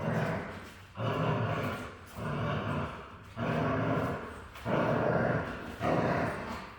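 Young Golden Retriever vocalizing in a run of rough, growly bursts, about one a second.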